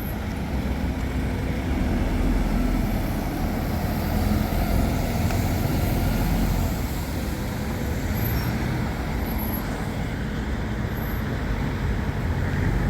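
Road traffic with buses and cars: a steady low engine rumble.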